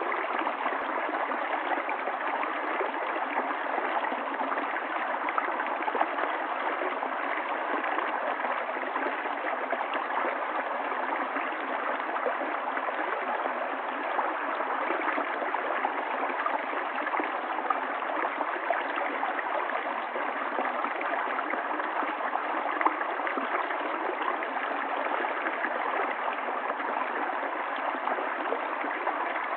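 Stream water running steadily, a continuous rush made up of many small splashes, with no change throughout.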